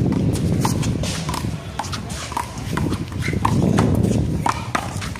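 A one-wall handball rally: the rubber handball slapped by bare hands and smacking off the wall and the court in a quick, irregular run of sharp smacks.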